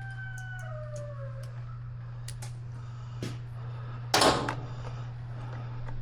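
A rooster crowing, its call falling away over the first second and a half, over a steady low hum. Light scattered clicks of hand tools follow, and about four seconds in there is one sharp, loud clatter.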